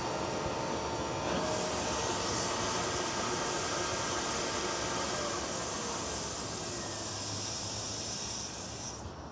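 Steady hissing rush of gas or air over a continuous low roar. A brighter, higher hiss joins about a second and a half in and cuts off suddenly near the end.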